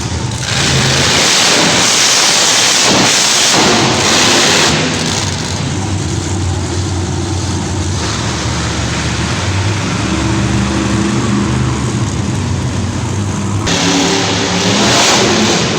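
Monster truck engine running and revving, with a loud rushing blast in the first few seconds and again near the end.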